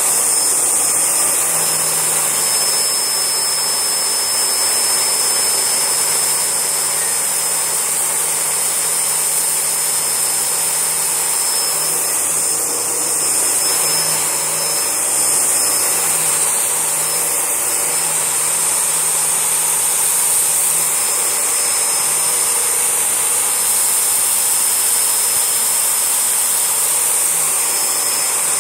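Panasonic MC-E4103 twin-cylinder bagless vacuum cleaner running steadily as it vacuums up a test mess, its motor giving a constant high-pitched whine over a steady rushing of air.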